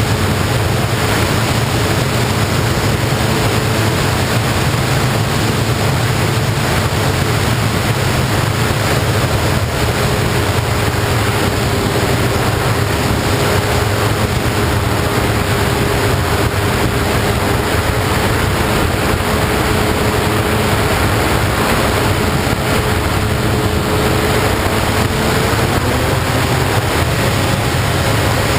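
FPV model plane's motor and propeller running in flight over steady wind rush, a faint held whine that steps up in pitch near the end.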